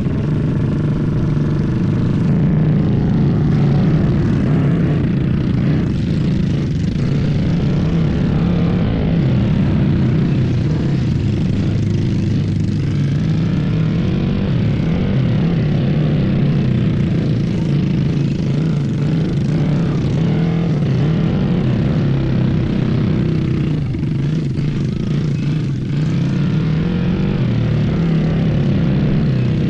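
Small engines running continuously, their pitch rising and falling as they rev.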